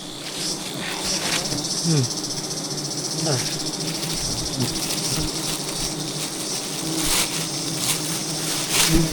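Steady insect buzzing, a continuous high drone with a lower hum beneath it.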